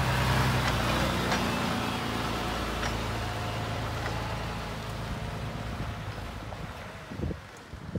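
Scania 92M truck's diesel engine running with a steady low drone, growing gradually fainter toward the end.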